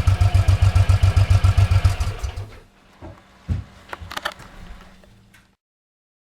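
2008 Suzuki C109R V-twin idling with a loud, even exhaust pulse, then switched off about two seconds in and running down. A few light knocks and clicks follow before the sound cuts off.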